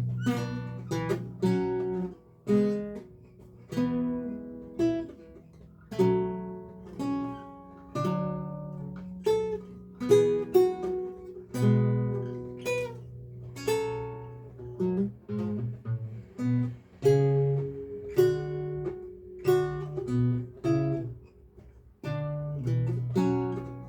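A lute played solo, working through a recercar: plucked single-line notes and chords with bass notes underneath, each note fading after the pluck, in phrases broken by short pauses.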